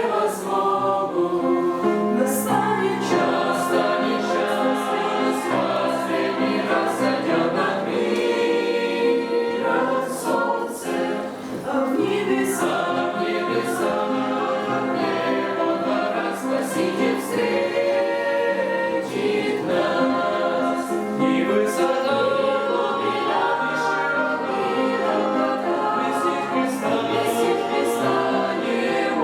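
A choir singing a song, several voices together.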